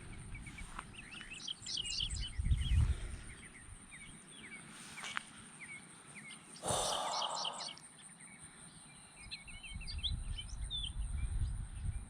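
Small birds chirping and twittering, with gusts of wind rumbling on the microphone. A brief rustle comes about seven seconds in.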